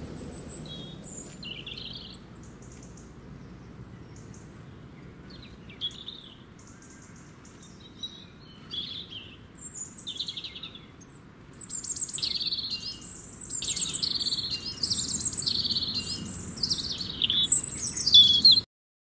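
Birds chirping and singing, several at once over a faint low background rumble. The chirps are sparse at first, then grow denser and louder over the last several seconds before cutting off abruptly near the end.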